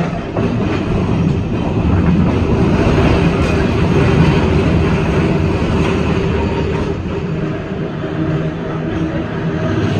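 NORTA 900 Series streetcar heard from inside as it runs along the track: a steady rumble of the wheels on the rails with some clickety-clack and a faint steady tone.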